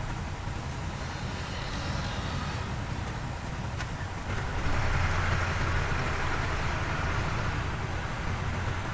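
Diesel engine of heavy earthmoving machinery running steadily, getting louder about four and a half seconds in.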